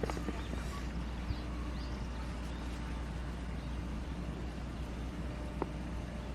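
Outdoor ambience: a steady low rumble with a few sharp knocks, about a second in and again near the end, and faint high chirps.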